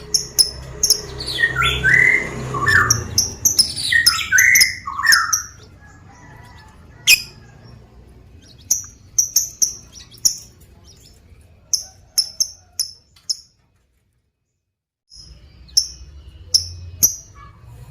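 Lovebird calling. A run of shrill, falling chirps comes in the first few seconds, then short high chirps repeat in quick clusters. After the middle, the calls break off in a silence of about a second and a half.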